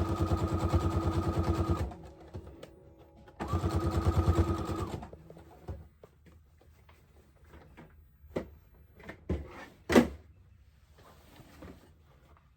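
Electric sewing machine stitching in two short runs, the first about two seconds and the second about a second and a half, each a fast, even rattle of needle strokes over a steady motor hum. Then a few scattered clicks and knocks, the sharpest about ten seconds in.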